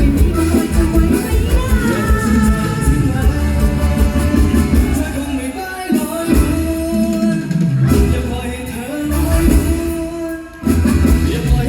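Live mor lam band music with singing over a heavy bass beat; the beat drops out briefly about halfway through and again shortly before the end.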